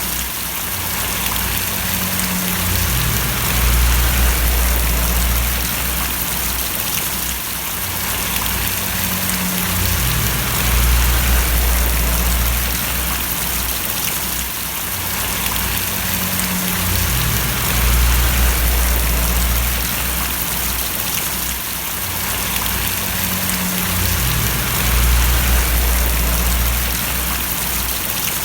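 Steady rain pattering on surfaces in a dense, even hiss. Underneath it a low rumble swells and fades about every seven seconds.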